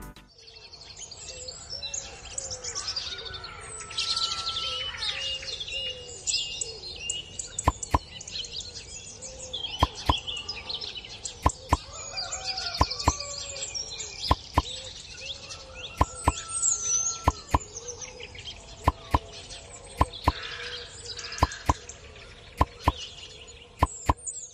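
Birds chirping and calling, with many sharp clicks scattered through it.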